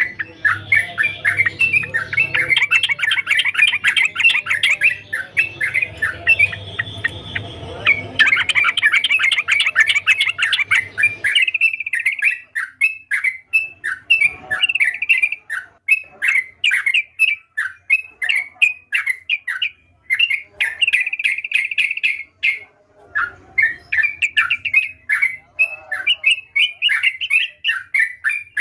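Yellow-vented bulbul (trucukan) singing: a fast run of short, chattering notes, packed close together for about the first eleven seconds, then broken into separate phrases with brief pauses.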